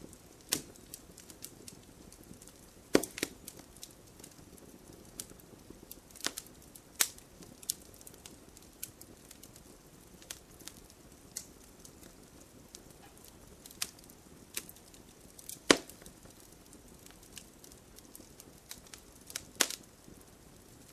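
Wood fire burning: a low steady hiss with irregular crackles and sharp pops from the burning wood, a few louder snaps about three seconds in, near the middle-late part and near the end.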